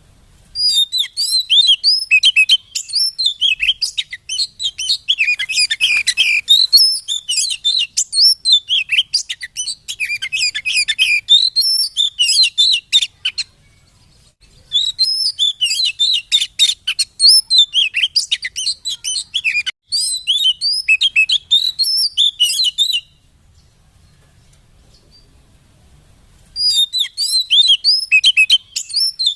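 Oriental magpie-robin (kacer) singing a rapid, high, varied run of chirps and whistles in long bouts. There is a short pause about halfway through and a longer pause near the end. This is the kind of lure song used to rouse a kept magpie-robin into singing.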